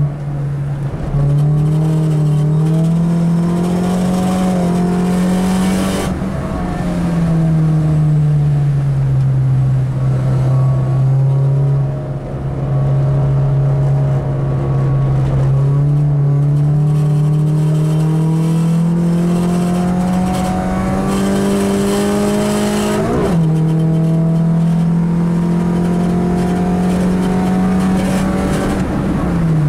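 Car engine heard from inside the cabin, driven hard. Its note climbs under acceleration, sinks as the car slows, then climbs for several seconds more. About three-quarters of the way through it drops abruptly at a gear change.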